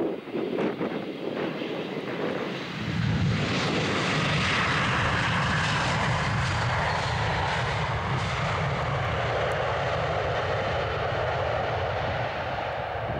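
Jet engines of an Airbus A319 airliner passing close by on its landing approach: a rumbling roar comes in about three seconds in and stays loud, after gusty wind on the microphone at the start.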